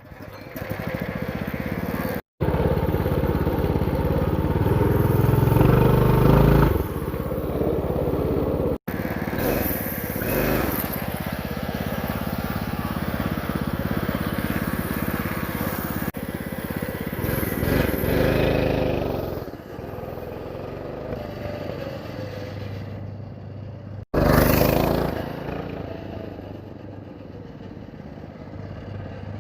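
The single-cylinder four-stroke 211cc engine of a Baja Dirt Bug mini bike running under way, revving up and easing off, with several abrupt cuts. Near the end it settles to a quieter, steady run.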